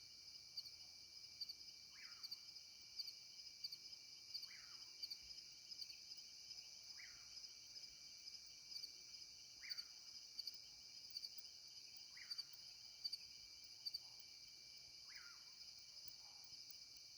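Night insects, crickets among them, trilling steadily, with a short falling call repeated about every two and a half seconds, six times, from some other night animal.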